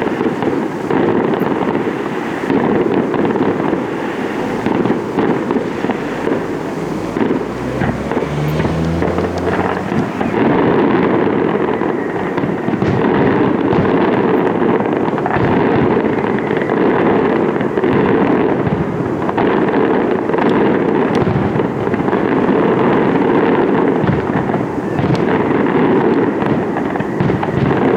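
Display fireworks going off in a dense, continuous barrage: overlapping shell bursts and crackle with no pauses between them.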